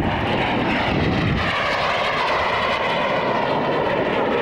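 Aircraft engine noise from a display aircraft, loud and steady.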